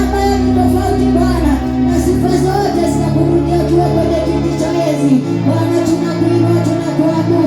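Worship music: voices singing over accompaniment that holds sustained chords, with the bass notes shifting about two seconds in and again about five seconds in.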